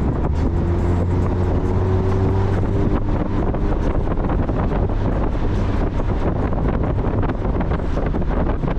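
Mazda Miata's four-cylinder engine running while driving, its pitch rising slightly in the first few seconds, under heavy wind noise buffeting the microphone.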